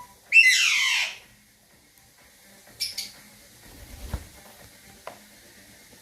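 Alexandrine parakeet giving one loud, harsh squawk that falls in pitch, then two short, quieter calls about three seconds in.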